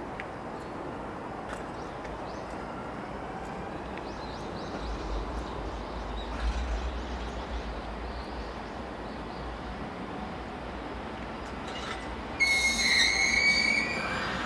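A freight train approaching and running past with a low rumble and faint clicking of wheels over rail joints, then a loud horn blast of about two seconds near the end.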